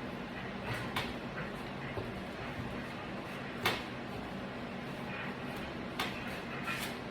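A few sharp clicks and knocks from hands working on a window screen and its frame, the loudest about halfway, over a steady low hum.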